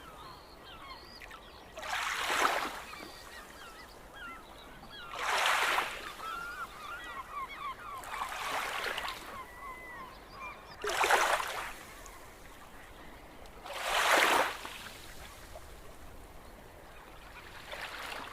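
A flock of gulls calling: many short, overlapping cries throughout. About every three seconds a loud rushing whoosh swells up and fades.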